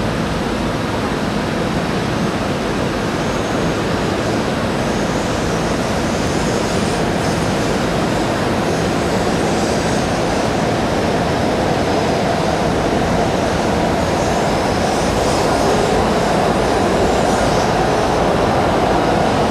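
Railway noise: a steady rumble with a hiss above it, growing slightly louder in the second half.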